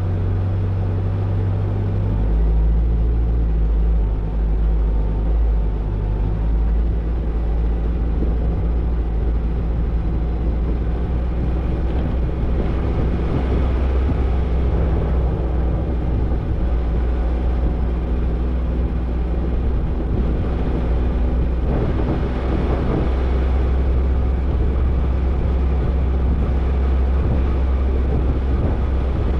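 Toyota Tercel 4WD wagon driving a dirt trail: its engine drones steadily, with a change in the engine note about two seconds in. Rough, rattling tyre and body noise grows heavier through the middle of the stretch.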